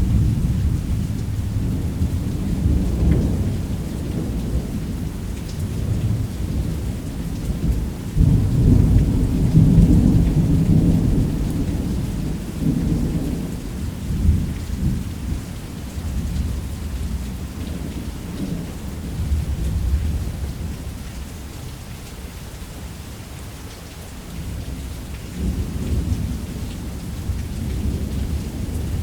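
Thunderstorm: long rolling thunder rumbling continuously over steady rain, swelling loudest in the first half and easing off past the middle before building again near the end.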